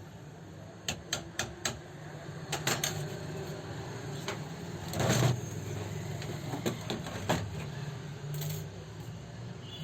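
A series of sharp clicks and knocks of hard parts and tools being handled during overlock machine repair, with a louder scrape about five seconds in.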